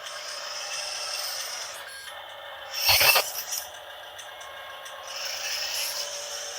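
Radio-controlled toy dump truck's small electric drive motor and gears whirring, rising twice, with a short loud scraping burst about three seconds in.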